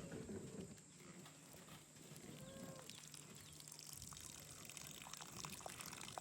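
Faint cattle mooing, with one faint call about two and a half seconds in.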